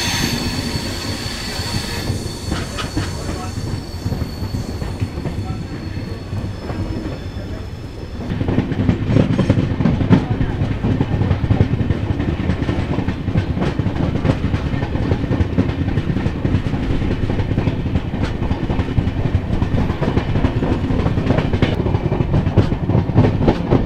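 Passenger train running on the track. A high wheel squeal fades out over the first few seconds, and about eight seconds in a louder rumble sets in, with a quick clatter of wheels over rail joints.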